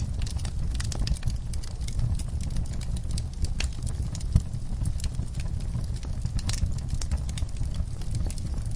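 Wood-burning fire crackling: irregular sharp pops and snaps over a steady low rumble, with one louder pop about four and a half seconds in.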